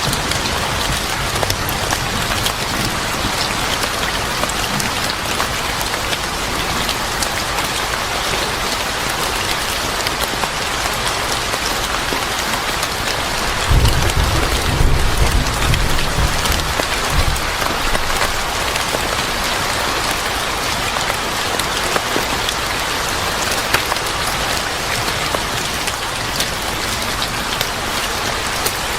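Steady rain pattering on a surface, with a low rumble of thunder lasting about three or four seconds about halfway through.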